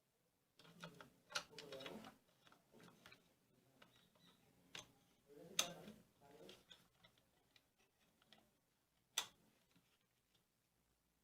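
Small hard parts being handled: a handful of sharp clicks and knocks with brief rustling between them. The sharpest click comes a little past the middle, and a last one near the end.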